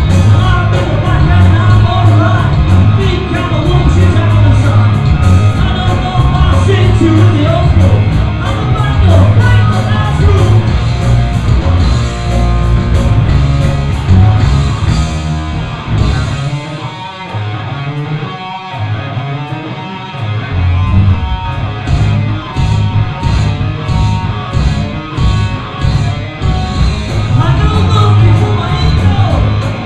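Live hard rock band playing loud, with pounding drums, bass and electric guitar. About halfway through the drums and bass drop out for a few seconds of quieter guitar, then the full band crashes back in.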